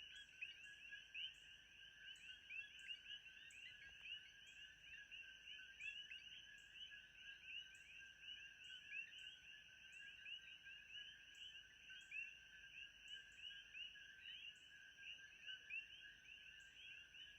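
Faint chorus of many frogs calling at once, a dense steady mass of short overlapping chirps, over a thin steady high-pitched hum.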